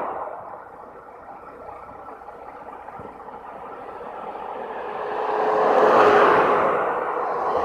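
A road vehicle passing by: its tyre and engine noise swell to a peak about six seconds in, then fade.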